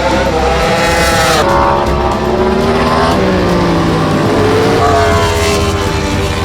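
Yamaha YZR-M1 MotoGP racing motorcycle engine at high revs, its pitch rising and falling, with sharp drops about a second and a half in and again about three seconds in.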